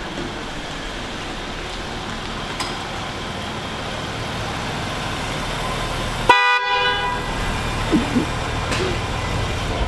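Steady vehicle running noise, with a single short horn toot a little past six seconds in.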